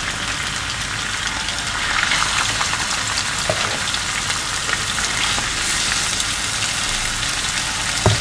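Raw marinated chicken breast pieces frying in hot coconut oil in a non-stick pan: a steady sizzle with scattered small pops and crackles. A brief knock comes near the end.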